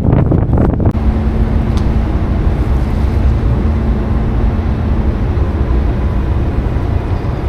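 Wind buffeting the microphone for about a second, then a steady low drone of the ferry's engines under wind and water noise.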